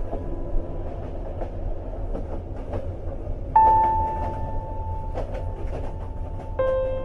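Train-ride ambience: a steady low rumble of the carriage with scattered rail clicks. A long sustained music note comes in sharply about halfway through and fades slowly, and another enters near the end.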